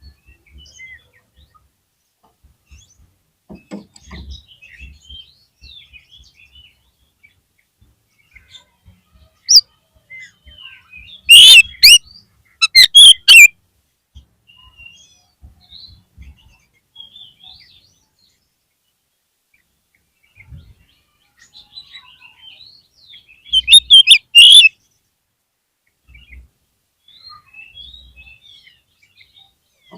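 Oriental magpie-robin (kacer) calling: soft, scattered chirps and warbling phrases, broken by very loud, harsh bursts of call, a cluster about a third of the way in and another about three quarters through.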